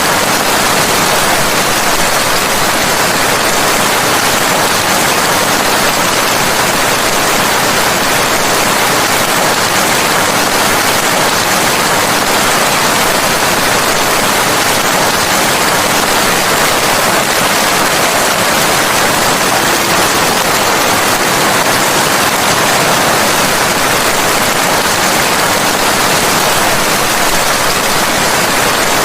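Steady rain: a loud, even, dense hiss with no single drops, thunder or changes standing out.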